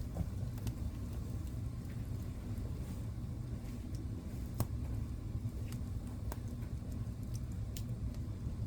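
Wood fire burning in a fireplace: a steady low rumble of the flames with scattered sharp crackles and pops. The loudest pop comes a little past halfway.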